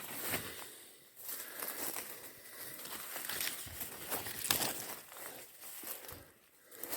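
Footsteps through forest undergrowth, with vegetation rustling and crackling underfoot and against the legs, easing off briefly near the end.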